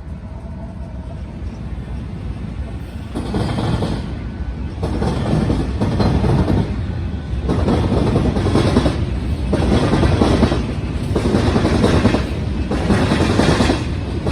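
Freight train rolling past, growing louder over the first few seconds, then swelling and fading in a steady rhythm about every second and a half.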